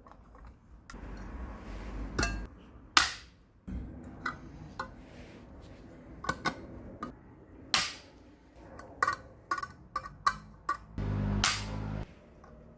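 A string of sharp knocks and clicks from hard objects being handled and set down, with a short low hum about eleven seconds in.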